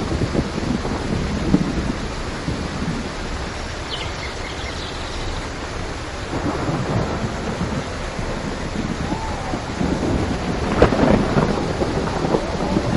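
Steady rain with rolling thunder. The rumbles swell near the start and again, loudest, about eleven seconds in.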